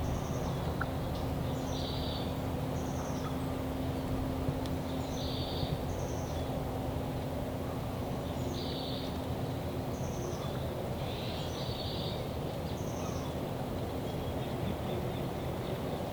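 A small songbird singing the same short, high phrase four times, roughly every three seconds, over steady outdoor background noise.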